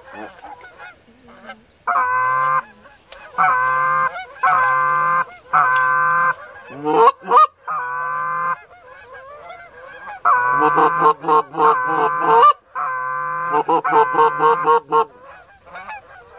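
Goose honking: a run of loud, even honks, each about half a second to a second long, with short gaps between.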